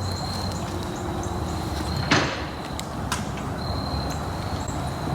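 Insects trilling in steady, broken stretches, with short high chirps over a low outdoor rumble. About two seconds in, a sudden loud noisy burst of about a quarter second; a sharp click follows about a second later.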